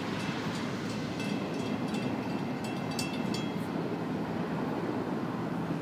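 Steady rumble of a double-stack freight train moving away down the line after its last car has passed. In the first half there are several sharp metallic clicks and a faint thin ringing tone.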